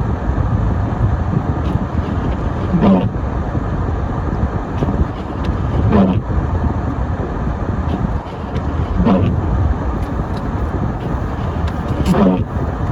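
Car driving on a snowy road, a steady rush of road and engine noise, with a short rising sweep repeating about every three seconds.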